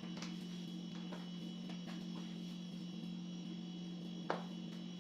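Steady low electrical hum, with faint handling rustles and one short light knock about four seconds in.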